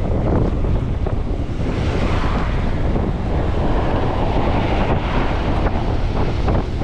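Wind buffeting the microphone of a camera riding on a folding bike going downhill: a loud, steady, low rumble of wind noise.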